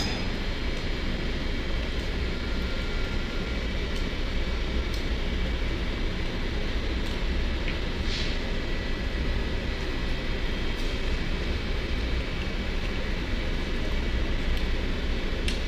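Steady mechanical noise with a low hum, and a few faint clicks over it.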